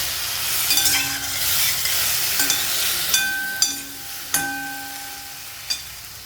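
Food frying and sizzling in a pan while a metal spatula stirs it, striking the pan several times with sharp ringing clinks. The sizzle dies down after about four seconds.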